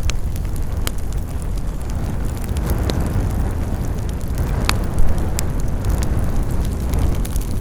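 Campfire burning: a steady low rumble of flames with sharp wood crackles and pops every second or so, the loudest pop about five seconds in.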